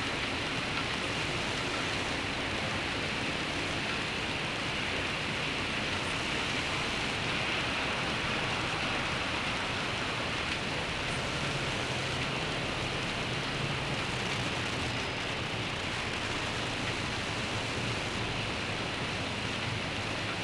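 Steady rain falling in a continuous, even hiss, with a faint low hum rising a little about halfway through.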